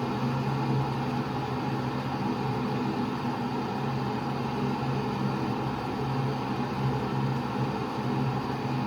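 Taylor Swoden electric kettle heating water: a steady rushing hiss over a low hum as the water works up toward the boil.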